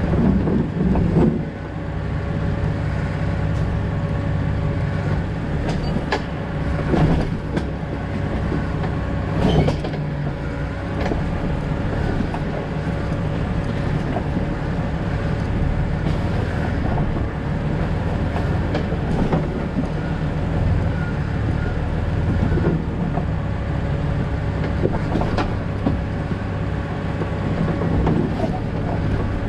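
2000 Jeep Cherokee XJ driving on a backcountry road: a steady engine and road rumble, with occasional sharp knocks and rattles, the loudest a few seconds into the stretch and again near the middle.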